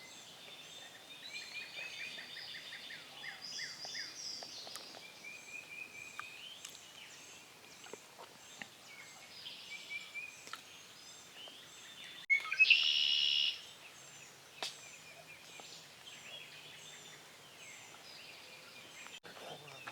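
Songbirds singing and chirping in the early-morning woods, many overlapping short calls and trills. About twelve seconds in, a much louder, closer call of about a second stands out above them.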